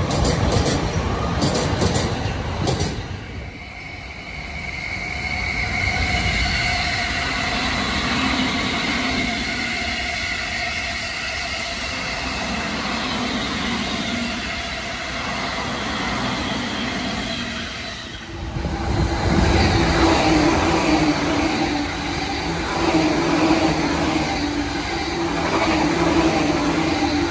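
Electric commuter trains running through the station at speed, wheels clattering over rail joints. First the tail of a yellow-striped Sōbu local train goes by, then a long blue-and-cream Sōbu rapid train with a steady motor tone and wheel squeal. The sound dips twice and grows louder again about eighteen seconds in.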